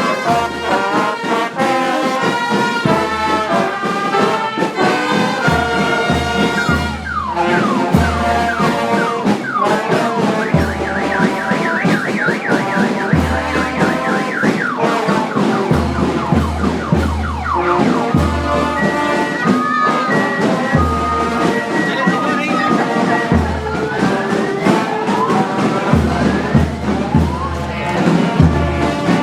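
Brass music: trombones and trumpets playing a tune over a steady, repeating bass line, with a few sliding notes.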